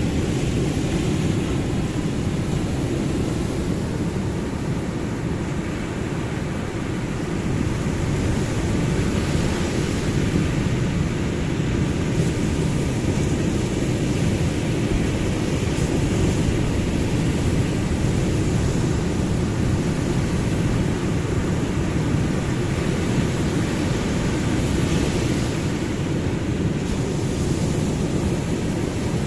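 Ocean surf washing continuously as a steady low rush, with gentle swells in loudness but no distinct breaking crashes.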